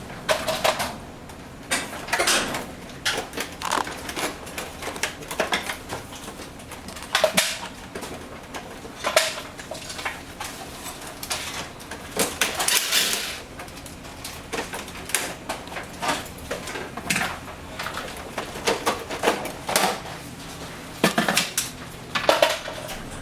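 Air conditioner parts and tools being handled while the drain pan is taken apart: irregular clicks and knocks of hard parts, with a longer scrape about thirteen seconds in.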